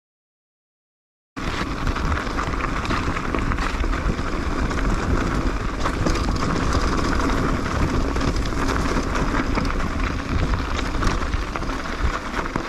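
Mountain bike riding downhill on a rough forest trail: a steady rumble of tyres over dirt and stones with constant rattling clicks from the bike. It starts abruptly after about a second and a half of silence.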